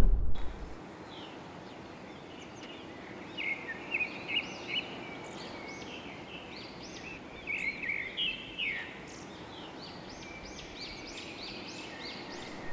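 Songbird singing: several bursts of quick, high chirping notes over a steady hiss.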